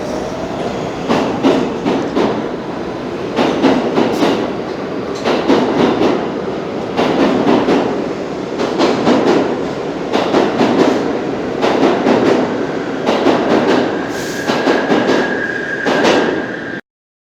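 R62 subway train running on the rails, its wheels clicking over rail joints in clusters every second or two. A steady high-pitched squeal comes in about three-quarters of the way through, and the sound cuts off suddenly near the end.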